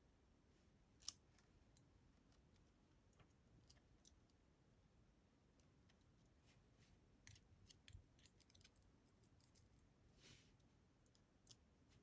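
Faint, scattered small clicks of metal lock parts being handled, the discs and spacers of a DOM Diamant disc-detainer lock being worked out of its housing during disassembly. One sharper click comes about a second in, and a quick run of clicks comes about two-thirds of the way through.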